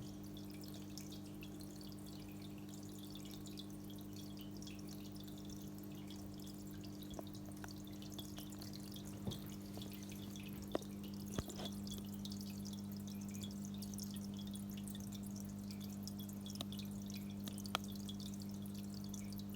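Aquarium water trickling and dripping, with a fine fizzing crackle over a steady low hum and a few sharp drip clicks.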